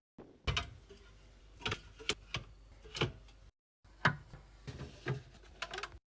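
Hard items being handled and set down, likely containers and lids during fridge or kitchen organizing: a string of separate clicks and knocks, about eight of them, with a short gap of silence about three and a half seconds in.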